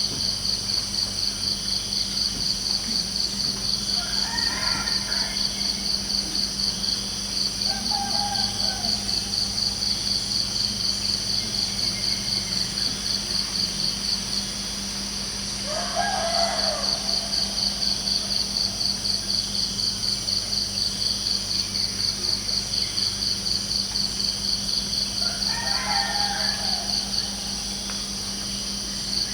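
Crickets chirping in a steady rapid pulse, pausing briefly twice, with a bird calling four separate times over it, loudest about halfway through. A steady low hum runs beneath.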